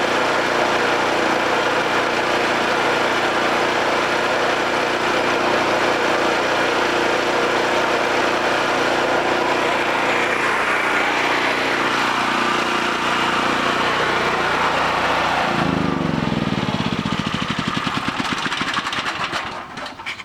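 Homelite 5000 watt generator's single-cylinder engine running steadily, then shut off about fifteen seconds in, its firing slowing and winding down to a stop over about four seconds.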